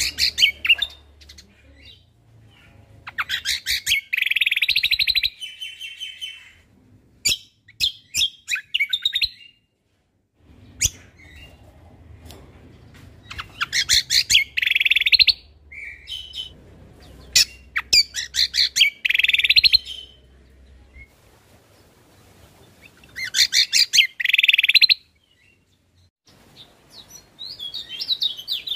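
Cucak kombo (kecial kombo) singing in repeated bursts of fast, rapid-fire trilled notes. Each phrase lasts a second or two, with short pauses between them.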